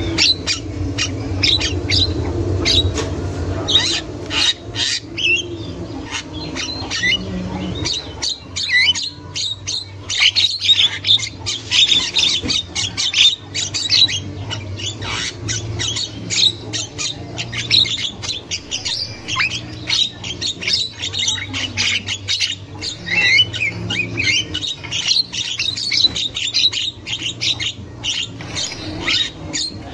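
Javan myna (jalak kebo) calling nonstop: rapid harsh chattering, clicks and squawky notes, over a low steady hum.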